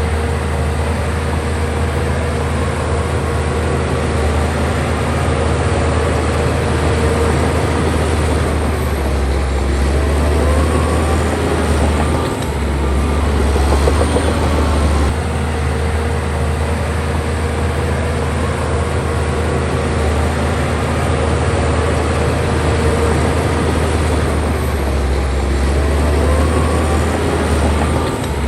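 Heavy diesel engine of a bulldozer at work, running steadily with a deep hum, its note shifting briefly a couple of times.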